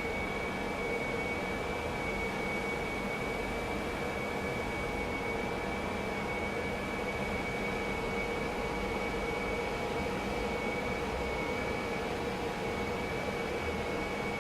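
Silman ST-R820 BGA rework station running steadily: an even whirring hiss of its hot-air blowers and fans, with a thin constant high tone and a lower hum over it.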